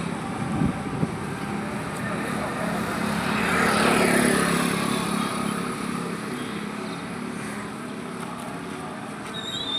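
Street traffic noise, with a vehicle passing and swelling loudest about four seconds in. A short high-pitched chirp comes near the end.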